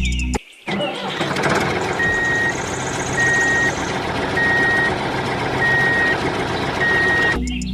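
Truck reversing alarm beeping steadily five times, about one beep every 1.2 seconds, over a running engine. The engine noise cuts off abruptly near the end.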